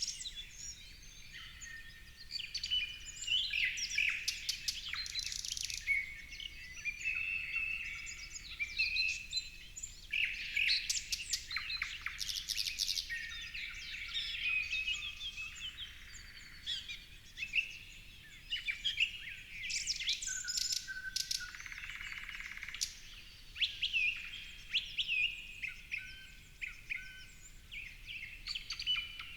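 Several birds singing and chirping at once, a steady overlapping chorus of quick high chirps, trills and whistles.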